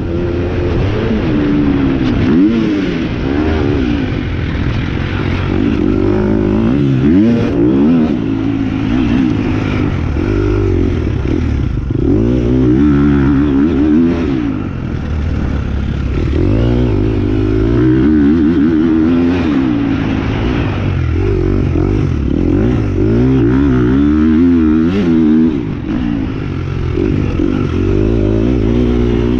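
2023 Kawasaki KX250X four-stroke single-cylinder dirt bike engine being ridden hard. It revs up and drops back over and over, its pitch rising and falling with throttle and gear changes.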